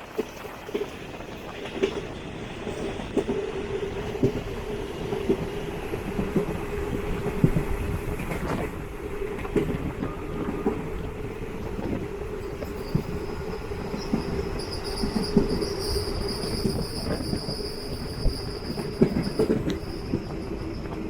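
Diesel-electric multiple unit (DEMU) train heard from on board while running: a steady hum under repeated knocks of the wheels over rail joints. A thin high squeal comes in a little past the middle and holds until near the end.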